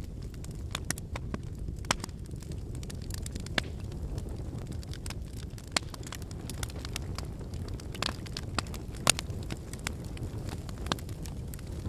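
Wood campfire burning: a steady low rumble of flames under irregular sharp pops and crackles from the burning firewood, the loudest pop about nine seconds in.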